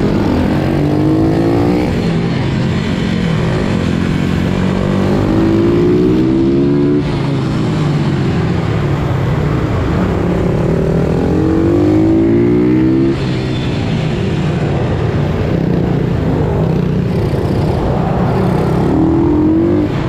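Pit bike's small single-cylinder engine accelerating hard, its pitch climbing for several seconds at a time and then dropping sharply as the throttle is shut, four times over.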